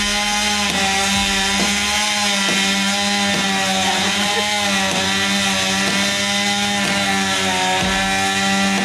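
Chainsaw running at high revs, its engine held at a steady high pitch with slight wavering.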